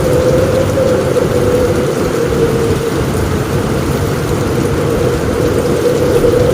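Heavy rain falling steadily on a roof: a dense, even patter with a low rumble underneath.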